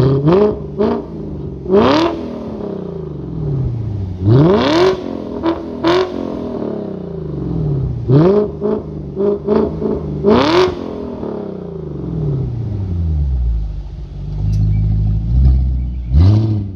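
BMW E38 740i's V8 revved through a custom exhaust with X-pipe, resonators and valved mufflers: a string of sharp throttle blips, each climbing quickly and sinking slowly back to idle, some in quick pairs and triples with longer idle gaps between.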